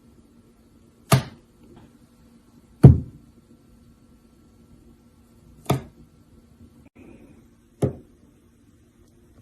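Four sharp knocks, irregularly spaced over several seconds, the second the loudest, over a faint steady hum.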